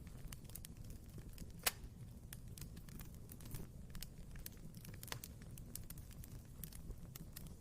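Wood fire crackling in a fireplace: a low steady rumble of the flames under irregular small snaps, with louder pops about one and a half seconds in and again about five seconds in.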